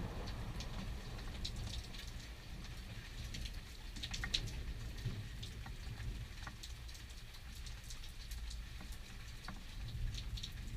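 Thunderstorm rain pattering, with scattered sharp drops ticking close by over a low, steady rumble.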